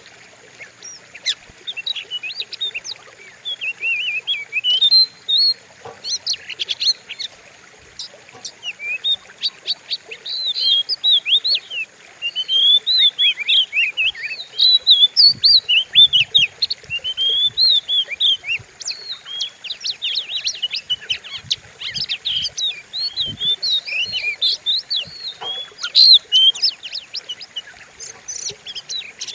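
Oriental magpie-robin (kacer) singing continuously in fast, varied phrases of sweeping whistles and short harsh notes. This is a lure song meant to provoke other kacer into singing.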